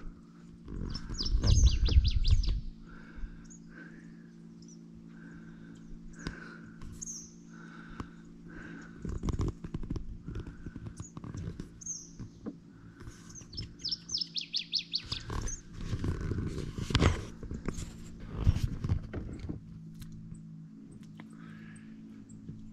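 Wild birds singing: one repeats a short note about once a second, and a fast, high, descending trill comes twice. Under the birdsong there is a steady low hum, and there are low rumbles and knocks, the loudest about two seconds in and again around the middle.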